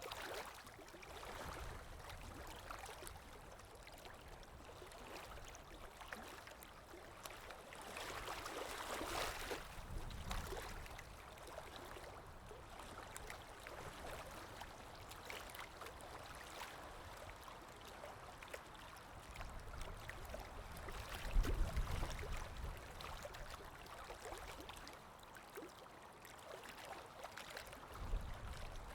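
Calm waves washing in, the wash swelling and fading in slow, uneven surges. The loudest is a deeper surge about two-thirds of the way through.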